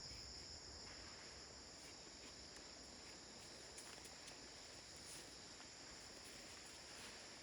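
Faint, steady insect chorus: a continuous high buzz or trill, with a few faint ticks scattered through it.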